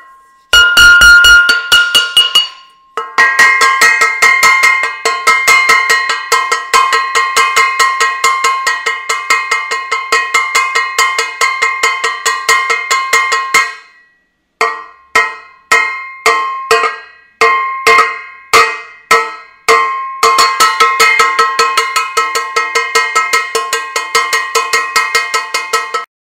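A metal saucepan being banged, casserolade-style, with fast ringing metallic clangs. The rapid banging slows to separate strikes about two a second around the middle, then speeds up again near the end.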